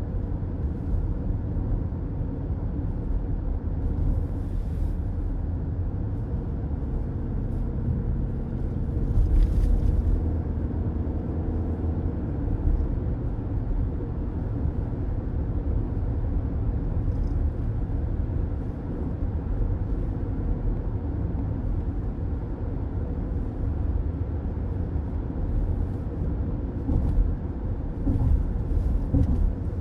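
Steady road noise of a car driving on a road, heard from inside the cabin: a low tyre and engine rumble, with a brief louder swell about nine seconds in and a few short surges near the end.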